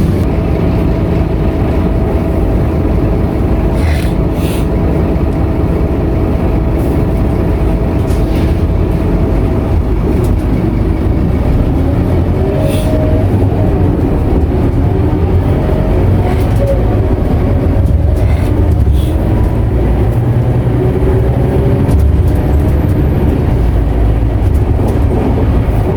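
Scania K230UB single-deck bus, with its nine-litre five-cylinder diesel, heard from inside the cabin while driving: a steady low engine and road rumble with a faint whine, and sharp rattles from the body every few seconds.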